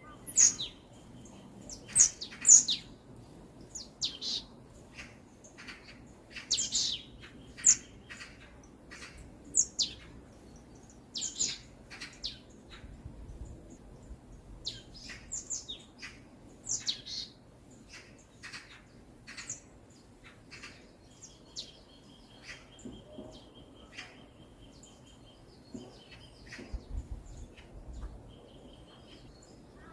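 Songbirds chirping in a forest: many short, sharp, high-pitched chirps, densest and loudest in the first half. A quieter steady trill comes about two-thirds of the way through, and a faint low background hiss runs underneath.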